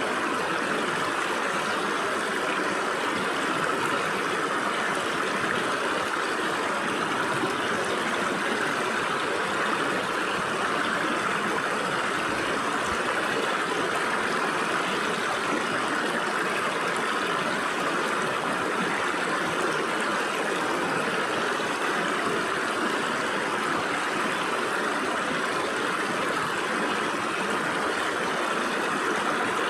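Stream water flowing and splashing through gaps between rocks, a steady rushing babble that keeps an even level throughout.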